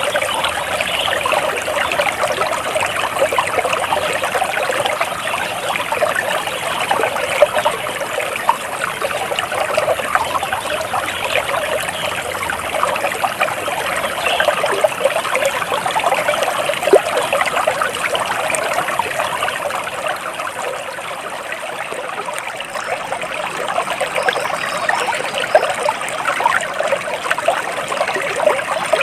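Water trickling and babbling in a small stream, a steady rush with many small splashes.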